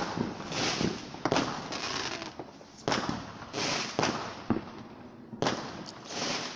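Fireworks going off: several sharp bangs over a few seconds, with hissing, crackling bursts between them.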